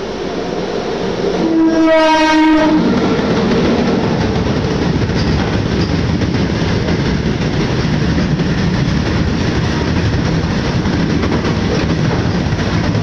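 Freight train passing at speed, led by its locomotive. The horn sounds one short blast about two seconds in as the locomotive draws level, then the open-top wagons roll past with a steady rumble of wheels on rails.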